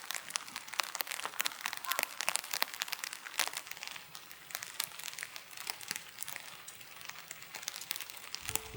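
Dense, irregular crinkling and crackling clicks. Music with held tones comes in near the end.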